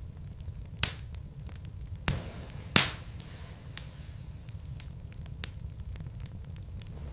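Wood logs burning in a fireplace, crackling with scattered small clicks over a steady low rumble. Three louder pops stand out, the loudest a little under three seconds in.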